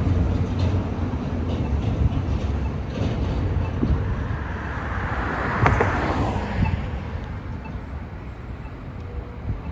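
Street traffic going by: engine and tyre noise from passing vehicles, with a louder swell of hiss about halfway through as one passes close. The noise then fades away.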